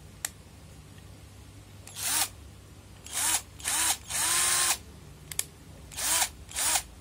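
Xenon cordless electric drill run in six short trigger bursts, the motor whirring up and winding down each time; the fourth burst is held a little longer. There are two sharp clicks, one just after the start and one about two-thirds of the way through.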